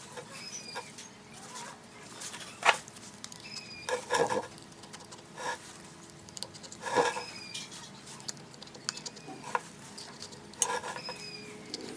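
Scattered knocks and clinks of hard parts and tools being handled during restoration work, with about five louder hits spread irregularly, over faint bird chirps.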